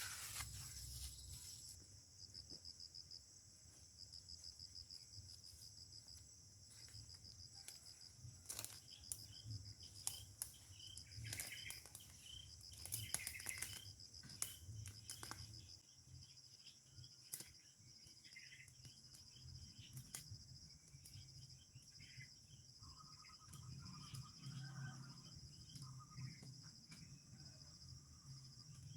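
Faint outdoor ambience: insects trilling steadily in a fast, high pulse, with scattered short bird chirps and a few sharp clicks.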